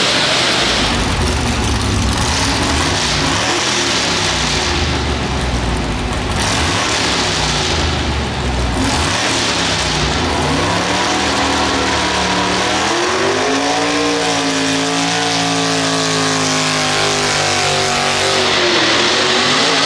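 Pulling tractor's engine revving up and down several times, then from about two-thirds of the way through held at high, steady revs under load, easing off near the end.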